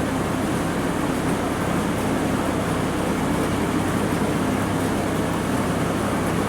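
Ford 1210 compact tractor's three-cylinder diesel engine running steadily while driving the rear snowblower, which runs smooth and quiet after its repairs.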